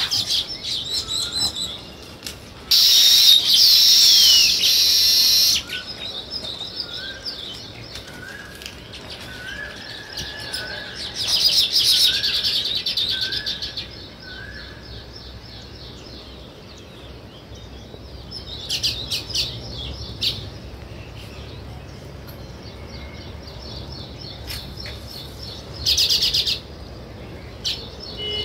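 Small songbirds chirping and chattering, with several loud bursts of dense high chirps a few seconds long. In the first half, a short rising whistle note repeats about once a second.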